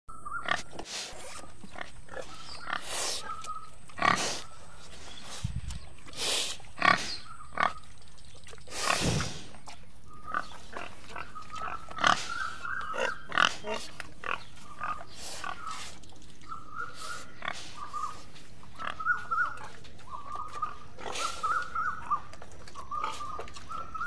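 Central European wild boars feeding close up, snouts to the ground: irregular sharp snorts and sniffs and the crunching of food, with grunts.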